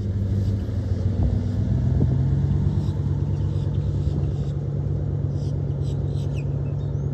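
Vehicle engine running with a steady low hum, its pitch lifting slightly about a second in.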